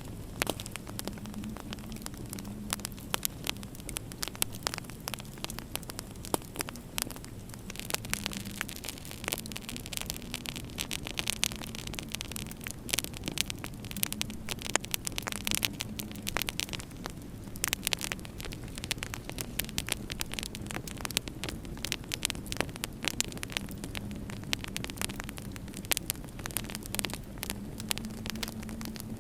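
Wood fire crackling in a fireplace: a dense run of sharp pops and snaps, over a steady low hum.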